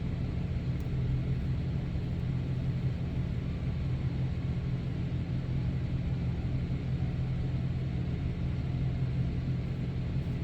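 Ram 3500 pickup running at idle: a steady low hum and rumble that does not change.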